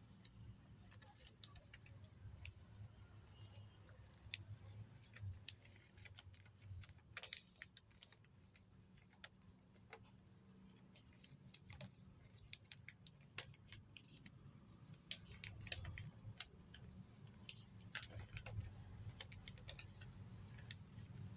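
Sheet of paper being handled and folded: scattered crinkles, creasing swipes and small taps. Under them is a faint steady low hum.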